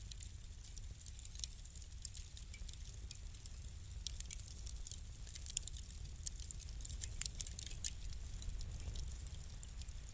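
Wood fire burning in a fireplace, crackling with many small irregular clicks and a few louder pops, over a steady low rumble.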